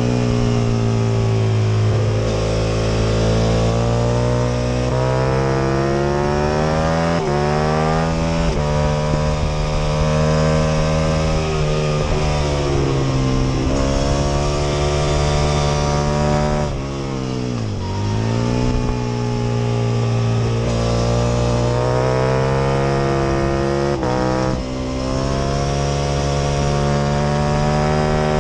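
Aprilia RSV Mille R's 998 cc V-twin at racing pace, heard onboard with wind rushing past: the engine pitch climbs through the gears with quick dips at each upshift. About two-thirds of the way through the revs fall steeply on the brakes and downshifts and then climb again under hard acceleration, with a smaller dip near the end.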